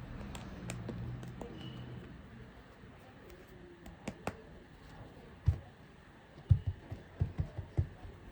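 Handling noise from plastic toy figures: scattered clicks, then a run of short, low knocks of toys being set down and tapped on a surface. A faint low hum fades out in the first two seconds.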